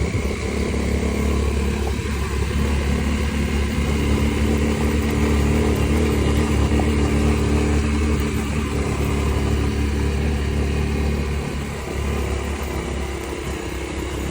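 Vehicle engine running at a steady pace while travelling, with road and wind noise over it; it eases off slightly near the end.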